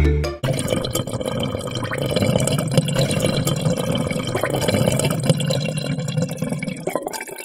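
Sound effect of water draining away, a continuous rushing gurgle like a plughole emptying, which cuts off suddenly near the end.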